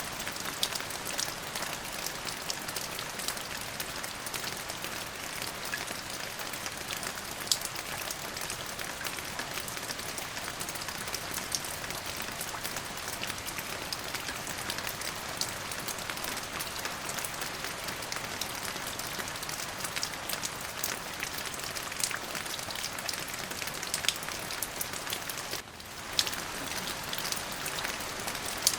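Steady rain falling, a dense hiss with many sharp individual drop ticks; the level dips briefly near the end.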